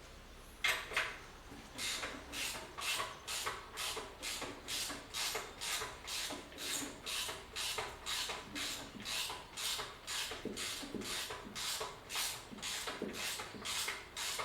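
Steady, even back-and-forth scraping strokes of a hand tool, a little over two a second, with a couple of sharper strokes about a second in.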